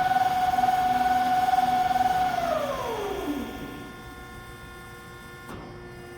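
Hyd-Mech V-20 vertical band saw running with a steady whine, then switched off about two seconds in, its whine falling in pitch as it winds down. A single click comes near the end.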